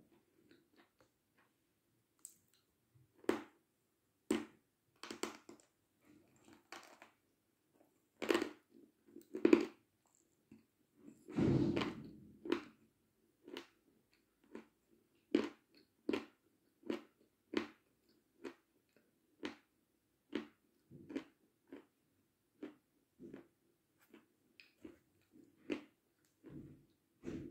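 Close-up mouth sounds of someone biting and chewing a crumbly white piece: short sharp crunches roughly once a second, with a longer, louder crunch about twelve seconds in.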